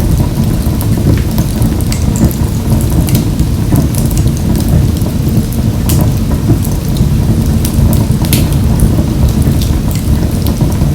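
Wood fire burning in a wood-burning stove: a steady low rumble of flames with sharp crackles and pops scattered throughout.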